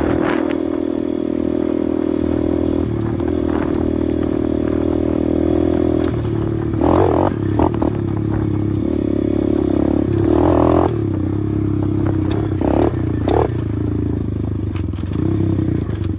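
A 125cc pit bike's engine running under way, its note stepping to a new pitch a few times, with brief louder surges about 7 and 10 seconds in.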